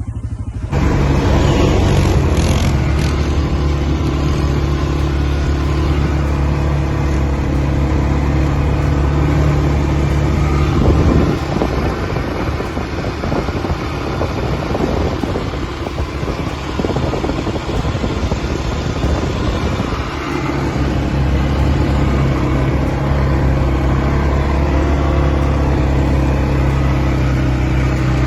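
ATV engine running steadily under way, holding an even note. For a stretch in the middle the sound turns rougher and less even, then steadies again.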